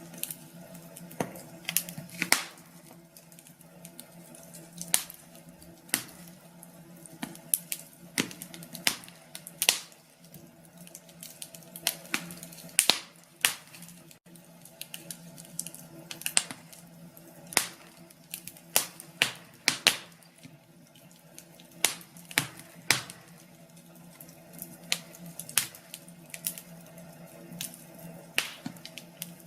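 Fire crackling in a fireplace: irregular sharp pops and snaps, one to several a second, over a faint steady background.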